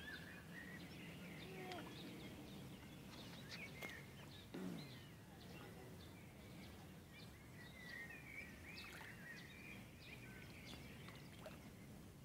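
Faint birdsong, with scattered short chirps throughout, over a low steady background hum and a few soft ticks.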